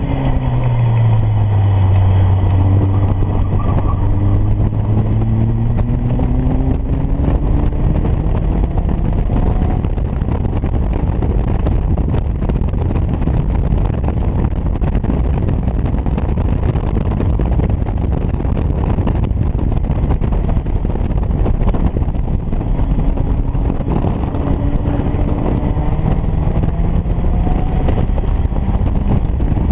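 Caterham Academy race car's engine pulling hard on track, with heavy wind and road rush over it. The engine note drops right at the start, climbs steadily through the revs over the first ten seconds, and climbs again near the end.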